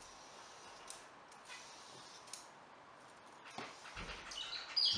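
A quiet room with a few faint light clicks and a dull thump, then a pet bird starts chirping with short high calls near the end.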